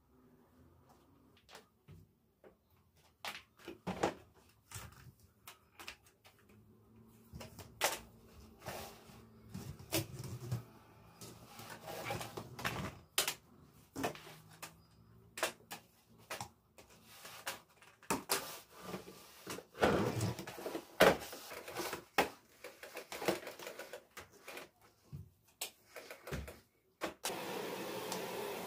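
Irregular clicks and knocks of household items being handled, moved and set down, with a steady rubbing or hissing noise starting near the end.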